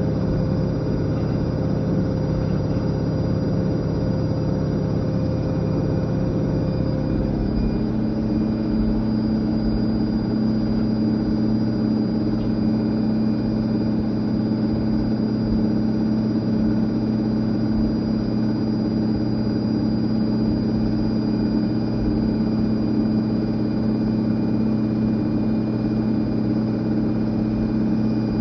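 Fisher & Paykel IW812 top-loading washing machine running with a steady motor hum; about seven seconds in the tone shifts and then holds steady, like the drum settling at a new spin speed.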